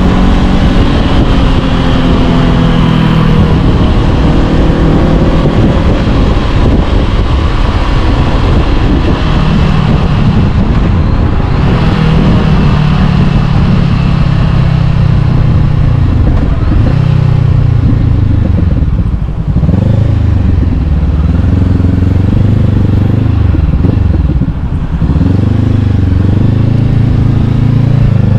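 Honda CB500X's parallel-twin engine through an Arrow Pro-Race exhaust, ridden under acceleration, the engine note climbing and dropping back again and again as it goes through the gears. Two short drops in loudness come at shifts, about two-thirds of the way through and again a few seconds later.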